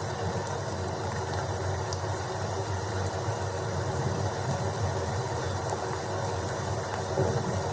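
Steady rain: a constant, even noise heavy in the low end, with a few faint drop ticks and no thunder clap.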